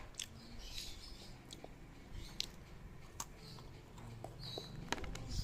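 A child eating a snack of cookies and marshmallows close to the microphone: scattered soft clicks and crackles of chewing and of handling the food.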